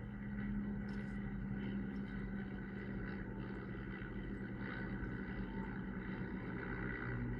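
Propeller aircraft engines droning steadily.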